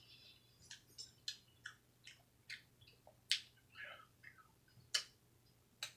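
Faint chewing of a taco, heard as sharp, irregular mouth clicks and smacks, about one or two a second.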